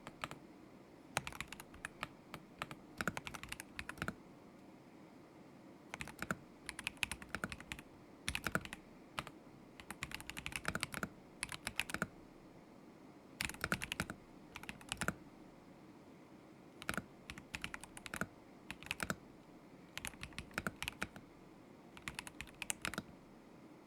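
Typing on a KZZI K75 Pro mechanical keyboard with Moment linear switches: quick runs of keystrokes in bursts, broken by pauses of a second or two.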